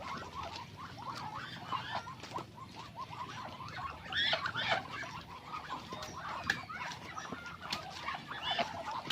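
Poultry peeping: many short, high chirping calls overlapping throughout, with a louder cluster about four seconds in, and a few sharp knocks.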